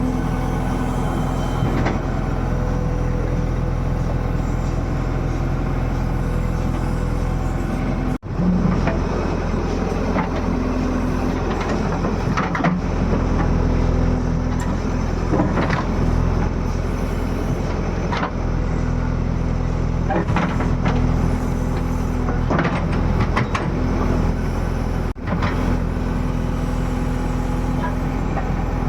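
The engine of a JCB digger running steadily while it works, with a few short knocks. The sound breaks off abruptly twice.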